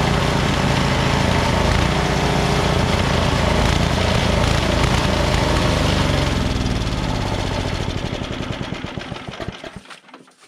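13 HP Tecumseh Snow King single-cylinder engine of a Cub Cadet 30-inch snowblower running, then shut off: about seven seconds in its firing slows and fades, and it dies out near the end.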